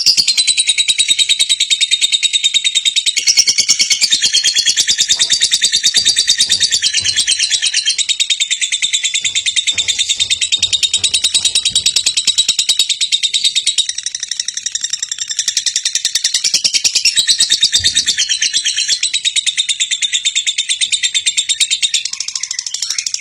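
Lovebird singing a long, unbroken trill of rapid, high-pitched chirps.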